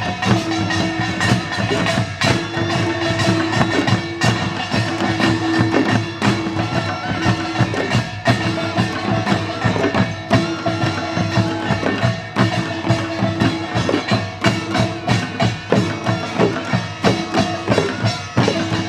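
Korean traditional instrumental music: fast, dense percussion strikes under a held tone that breaks off and returns. The music stops right at the end.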